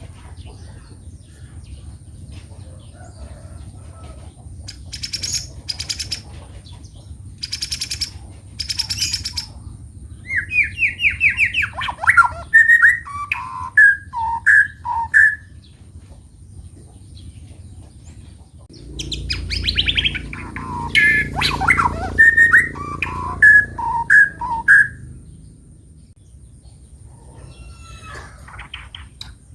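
White-rumped shama (murai batu) singing. A few harsh rasping calls come first, then two phrases of clear, varied whistled notes. A low rumble sits under the second phrase.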